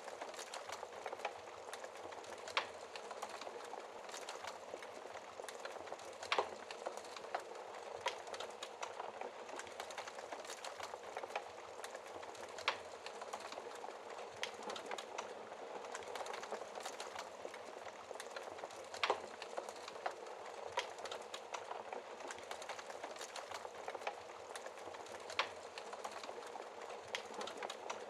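Wood fire in a fireplace crackling steadily: a dense run of small crackles, with a louder, sharper pop about every few seconds.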